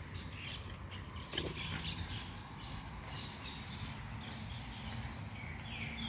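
Birds chirping, scattered short calls over steady outdoor background noise; a low steady hum comes in near the end.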